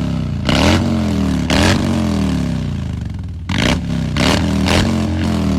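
Harley-Davidson Fat Boy's V-twin engine with an aftermarket exhaust, being revved while standing: about five sharp throttle blips, each falling back toward idle.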